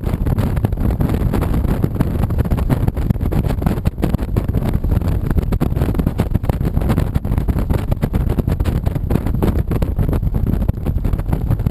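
Honda VTX 1300C's V-twin engine running steadily while riding, with wind buffeting the action camera's microphone.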